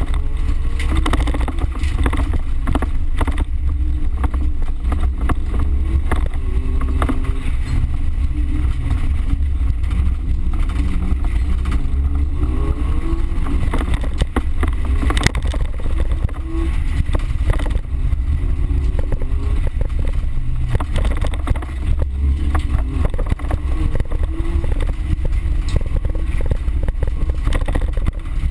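Small car's engine revving up and down hard, heard from inside the cabin under a heavy low rumble, with frequent knocks and rattles as the car jolts over a rough dirt track.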